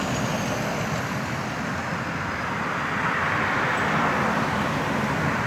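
Road traffic noise: a steady rush of passing vehicles.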